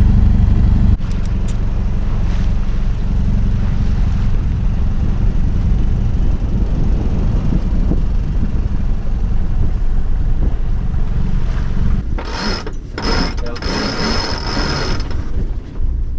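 A steady low rumble, then from about twelve seconds in several short bursts of mechanical ratcheting with a high whine from a winch on the sailing yacht.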